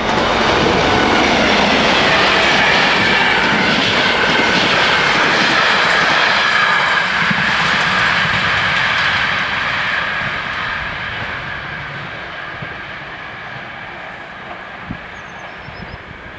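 Express passenger train running past over a level crossing, its wheels clattering on the rails. It is loud for the first nine seconds or so, then fades steadily as the train draws away.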